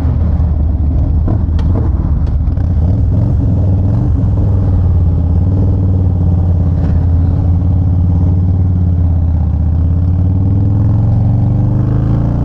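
Motorcycle engine running steadily close by, its pitch climbing near the end as the revs rise.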